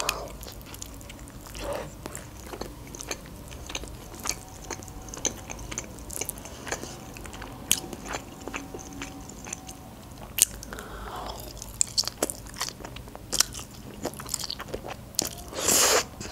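Close-miked chewing of lasagna: wet mouth clicks and smacks, repeated many times, with one louder, longer noise shortly before the end.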